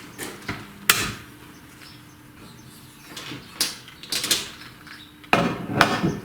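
Metal tooling being handled on a cylinder head: a few separate clicks and knocks, then a longer rattling scrape near the end, over a faint steady machine hum.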